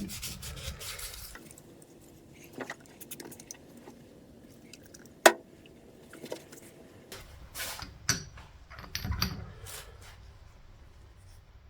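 Rubbing with sandpaper tails off, then light metallic clinks and clicks of steel tools and parts being picked up and set down, with a sharp click about five seconds in and a cluster of ringing clinks near the end.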